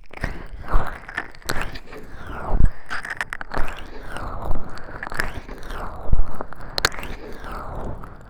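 Oiled hands massaging a 3Dio binaural microphone's ears, making close, wet, slick rubbing with frequent sharp clicks.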